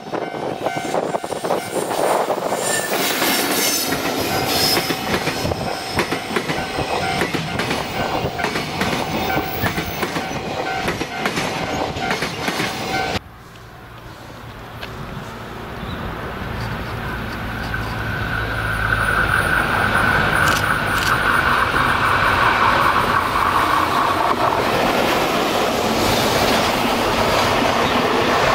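Container freight train hauled by an EF65 electric locomotive passing close, its wheels clattering rhythmically over the rail joints. About thirteen seconds in, the sound cuts to another pass that builds up again as the wagons round a curve, with a steady squeal from the wheels on the curve.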